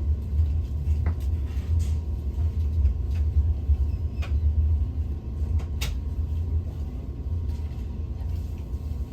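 Steady low rumble inside a passenger train carriage running slowly, with a few sharp clicks and knocks from the carriage.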